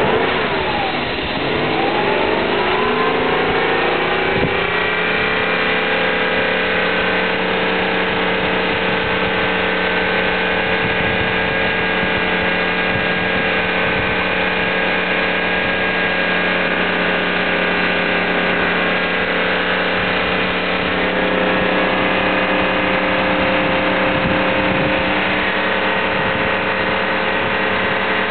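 BMW M60B40 4.0-litre V8 engine running. Its revs fall over the first few seconds and settle into a steady idle.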